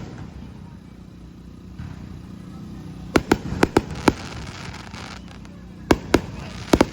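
Aerial fireworks shells bursting: a fairly quiet opening, then a quick volley of about five sharp bangs a little past the halfway point and four more near the end.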